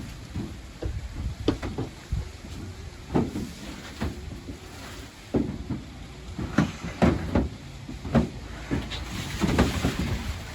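Strong wind buffeting the microphone with a steady low rumble. Over it come a series of knocks and bumps, about half a dozen, from heavy speaker cabinets and gear being unloaded and handled.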